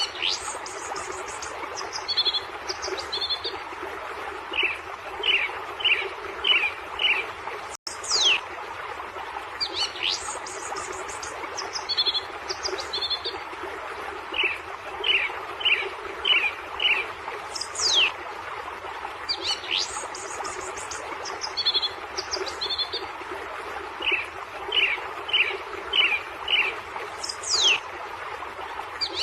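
Wild songbirds calling and singing: quick falling whistles, a run of five short descending notes and paired higher chirps. The same sequence recurs about every ten seconds over a steady hiss.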